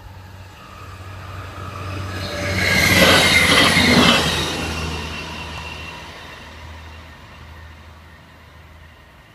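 LINT 41 diesel multiple unit passing over a level crossing. It builds up as it approaches, is loudest as it goes by about three to four seconds in, then fades away, its low drone dying out slowly.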